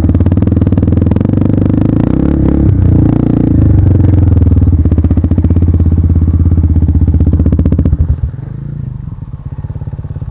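Trail motorcycle engine running loudly close by, with a fast, even firing pulse. About eight seconds in it drops off sharply to a lower running level.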